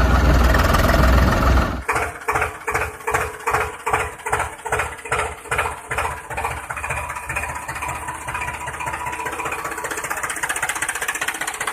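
Tractor engine sound. A loud low rumble gives way abruptly, about two seconds in, to an even chugging of about three beats a second, which smooths into a steady idle over the following seconds.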